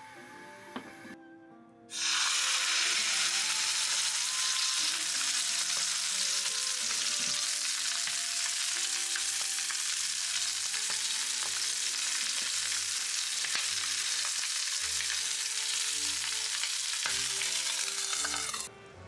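Chicken breast sizzling in hot oil in a frying pan: a loud, steady hiss that starts suddenly about two seconds in and stops abruptly near the end.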